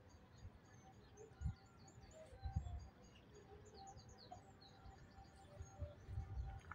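Small birds chirping, many quick high chirps and twitters in rapid succession, faint. A few low thumps come through, the loudest about a second and a half in and again near the end.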